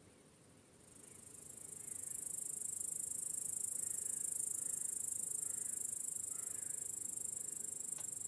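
Crickets chirping: a very high-pitched, rapid, steady trill that swells in over the first two seconds, then stops abruptly at the end.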